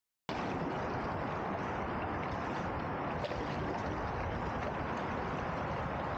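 Steady rushing noise of wind and water around a canoe on the river, cutting in suddenly after a moment of dead silence.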